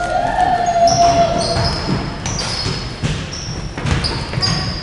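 Basketball game play: a ball bouncing on the court, with many short, high sneaker squeaks on the floor.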